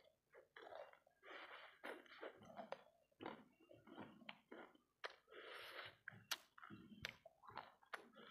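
Close-miked chewing of fried rice balls coated in sticky sambal: irregular wet smacks and clicks of the mouth, with short noisy chews in between.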